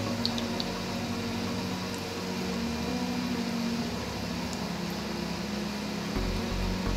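Banana molen, dough-wrapped banana pastries, deep-frying in hot oil: a steady sizzle and bubbling. Background music's low sustained notes sit underneath, and a pulsing beat comes in near the end.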